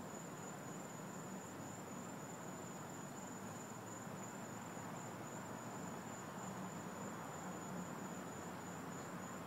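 Night insects trilling in a steady high chorus over a faint even hiss.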